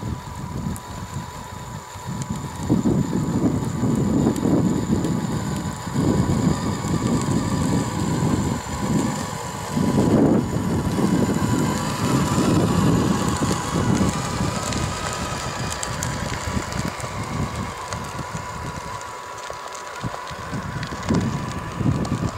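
Tamiya Scania radio-controlled model truck working, with a steady thin high whine over uneven low rumbling surges.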